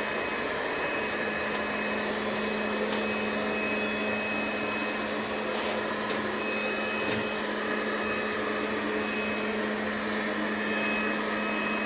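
Infinuvo robot vacuum cleaner running: a steady whir with a constant low hum.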